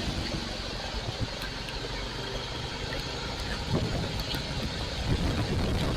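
Royal Enfield Classic 350 single-cylinder engine running under a steady rushing noise, a little quieter for the first few seconds.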